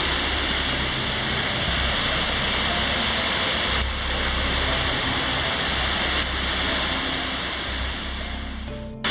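South Falls, a large waterfall, giving a loud, steady rush of falling water that fades a little near the end and then cuts off abruptly.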